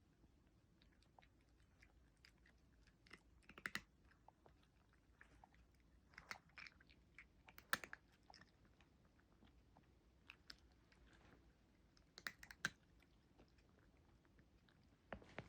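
A cat chewing crunchy food, with small clusters of sharp crunches every few seconds.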